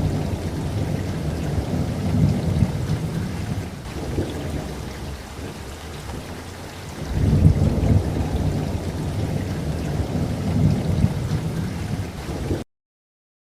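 Steady rain with long, low rolls of thunder: one rumbling from the start for a few seconds, another about seven seconds in. The sound cuts out completely about a second before the end.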